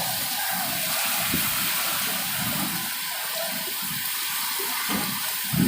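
Steady rushing hiss of heavy rain and wind in a cyclone storm.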